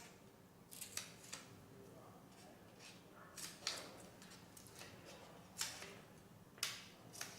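Faint, scattered rustles and light clicks of a paper transfer print and a phone case being handled on a mold: about eight short, separate noises.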